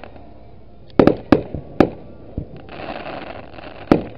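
Aerial firework shells bursting: several sharp bangs in quick succession about a second in and another near the end, with a stretch of hiss in between.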